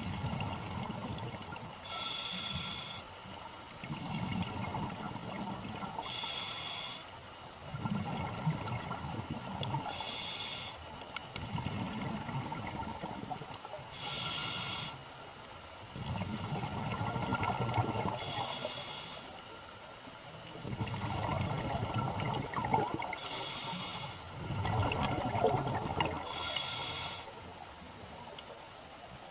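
Scuba diver breathing through a regulator underwater. A short hissing inhale comes about every four seconds, each followed by a longer spell of bubbling exhaled air.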